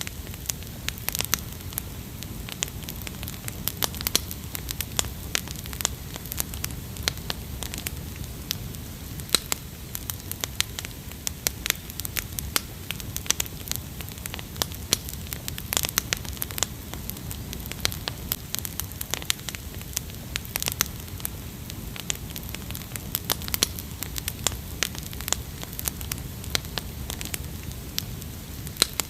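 Wood fire crackling, with irregular sharp pops and snaps over a steady low rush of burning.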